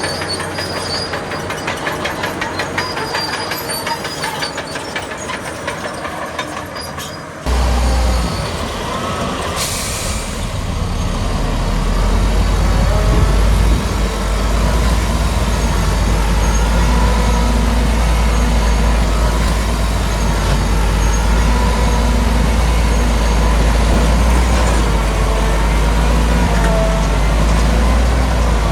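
Heavy diesel earthmoving machinery at work. At first a fast, even clanking rhythm runs over the engine. About seven and a half seconds in the sound changes abruptly to a louder, deeper engine running under load, with wavering squeaks over it.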